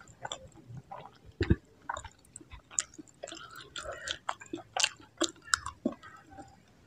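Close-up mouth sounds of chewing spicy instant noodles and meatballs: irregular wet clicks and smacks of eating, with one dull thump about a second and a half in.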